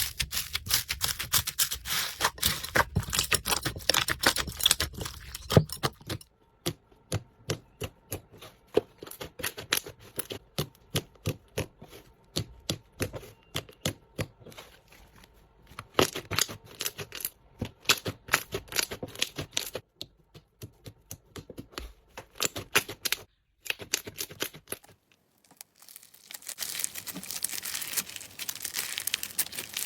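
Slime being squished and pressed, a run of quick sticky clicks and pops coming in several stretches, with a denser crackling crinkle near the end.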